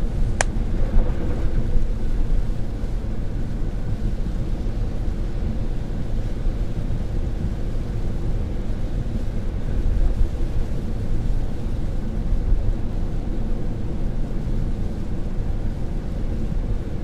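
Steady low rumble of a car's cabin while driving, an even noise with no pattern, with one sharp click just after the start.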